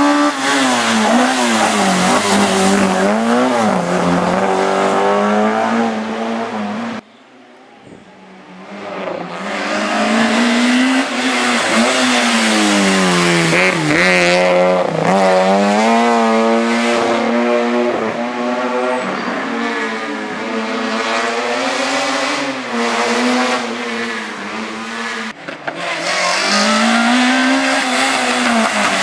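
Race car engine revving up and down again and again, with quick lifts and bursts of throttle, and a short tyre squeal about halfway through. The sound cuts off abruptly about seven seconds in and builds back up over the next few seconds.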